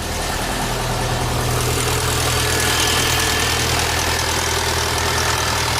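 Bora GLI's 2.0 turbo four-cylinder engine idling steadily, with a noise from the cylinder head that the mechanic suspects comes from the timing chain.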